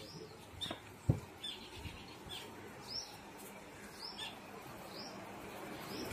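Small birds chirping, short high chirps repeating every half second to second or so, with a single thump about a second in.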